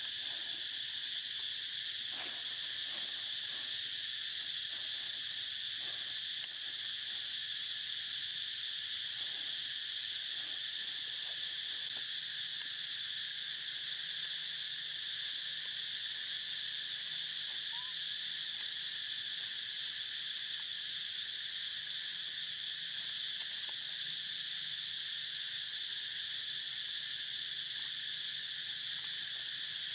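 Steady insect chorus, an unbroken high-pitched hum holding level, with a few faint brief sounds underneath.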